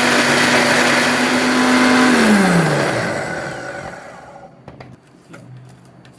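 Bosch MGM4334BIN 600 W mixer grinder running at steady speed, dry-grinding roasted cumin seeds to powder in its medium jar, then switched off about two seconds in, its pitch falling as the motor spins down. A few light clicks near the end.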